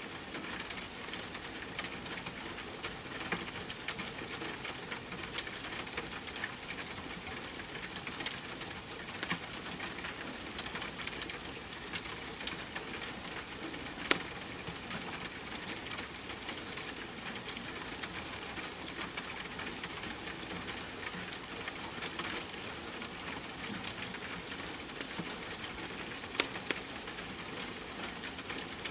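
Steady rain with a wood fire crackling over it: irregular pops and snaps, a couple of sharper ones standing out.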